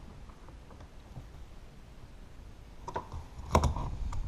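A few short plastic clicks near the end, the loudest about three and a half seconds in, as the retaining clip on the door-handle rod is pried back, with low handling noise before them.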